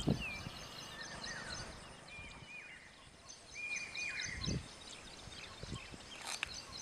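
Small birds chirping in the background: short, repeated arched notes over faint outdoor noise, with a low thump right at the start and another about four and a half seconds in.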